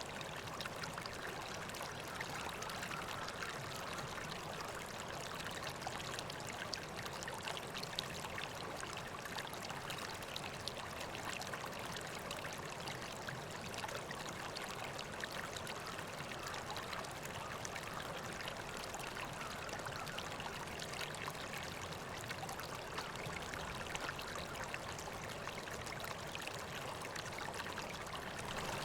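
River water flowing steadily, a continuous trickling and babbling.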